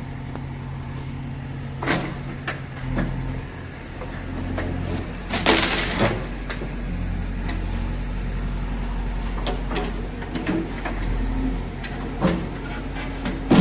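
JCB 3DX backhoe loader's diesel engine running, its note changing a few seconds in, with scattered clunks and knocks from the working machine and a short loud rush of noise near the middle.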